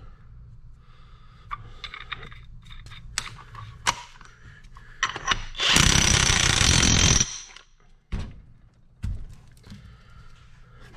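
A power tool runs in one loud burst of about a second and a half, between a few short knocks and clicks of metal parts being handled.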